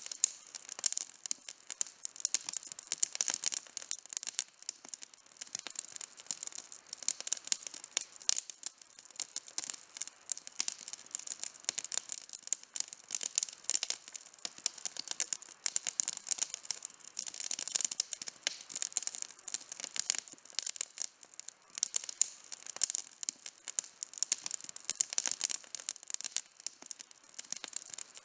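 Campfire burning, with dense, irregular crackling and sharp pops from the burning wood.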